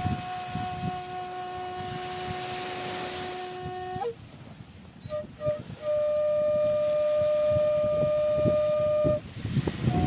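Suling bamboo flute playing slow, long held notes: one sustained note, a pause with a few short notes about four seconds in, then another long, lower note. A rough rush of surf runs underneath.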